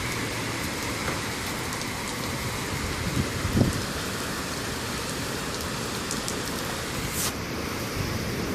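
Rain falling steadily, an even hiss, with a short low thump about three and a half seconds in and a brief sharper hiss near the end.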